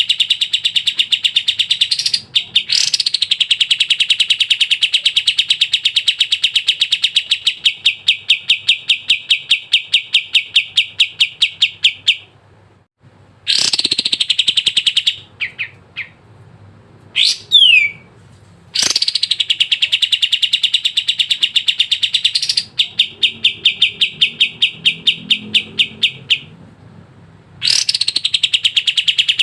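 A kapas tembak bird singing loud, rapid trills of fast repeated notes. Each run lasts several seconds and is broken by short pauses, with a brief rising whistle near the middle.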